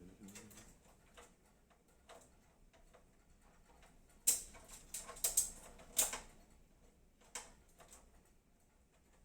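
Light clicks and clacks of PC cables and case parts being pushed and tucked flat inside a computer case, with a handful of sharper clacks from about four to six seconds in.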